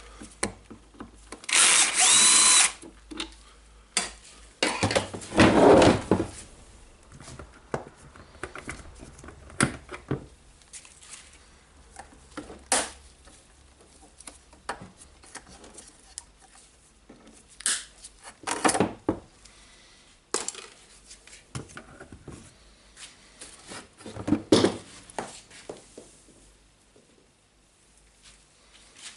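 Power drill-driver running in two short bursts a few seconds apart, the first with a whine that rises and falls in pitch, then scattered clicks and knocks from handling the parts.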